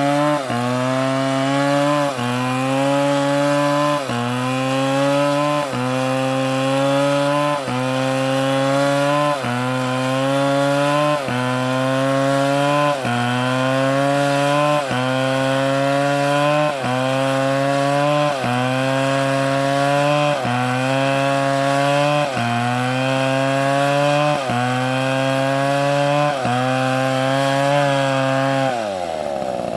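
STIHL chainsaw running at high revs, cutting wood, its engine note dipping briefly and recovering about every two seconds. Near the end the revs fall away sharply toward idle.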